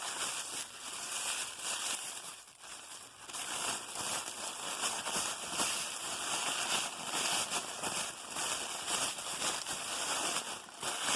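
Wrapping paper crinkling and rustling irregularly as a wrapped item is unwrapped by hand.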